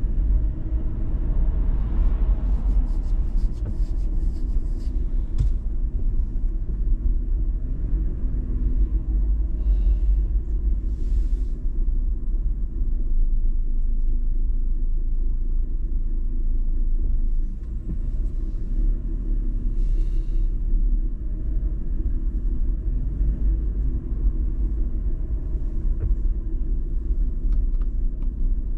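2019 Toyota 4Runner TRD Pro driving, with a steady low rumble of engine and road noise. A few brief, faint higher sounds come and go over it.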